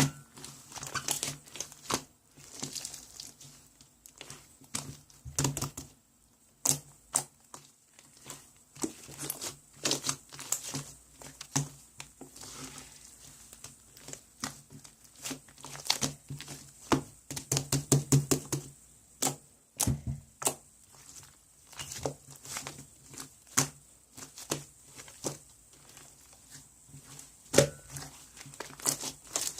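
Irregular clicks and taps with some crinkling, like small objects being handled, at times in quick runs.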